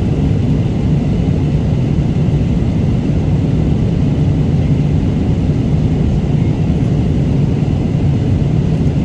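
Airliner cabin noise in flight: a steady, loud, low drone of engines and airflow.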